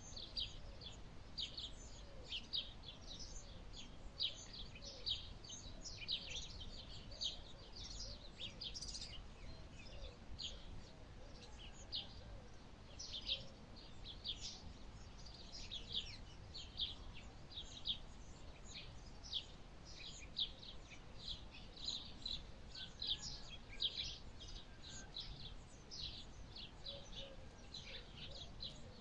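Small birds chirping continuously: a dense stream of short, high chirps, several a second, some louder than the rest.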